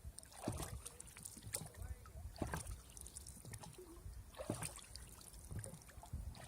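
Faint water lapping against a boat's hull: small irregular slaps and splashes every second or two over a low rumble.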